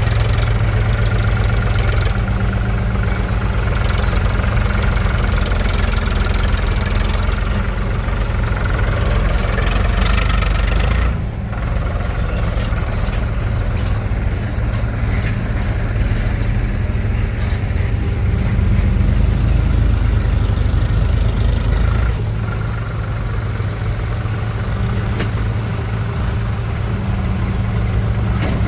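Heavy diesel engine of a tractor or backhoe loader running steadily at idle. The sound drops and changes about a third of the way in, and again about three quarters of the way in.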